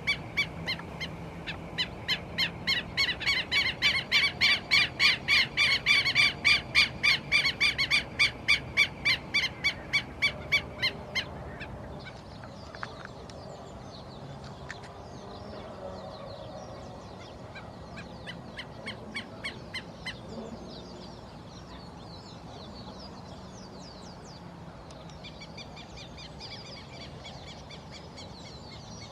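A bird gives a long run of loud, evenly repeated calls, about three or four a second, which stop about eleven seconds in. Fainter scattered bird chirps follow, with a short run of calls around twenty seconds in.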